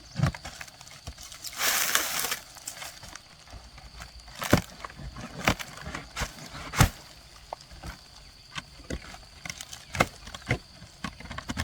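Irregular knocks and taps, a few seconds apart, with a short burst of scraping or rustling noise about two seconds in.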